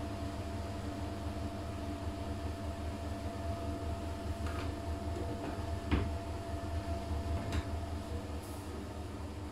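Siemens iQ500 front-loading washing machine in its final spin, giving a steady low hum with a fainter whine over it. A few clicks and knocks come in the second half, the loudest about six seconds in.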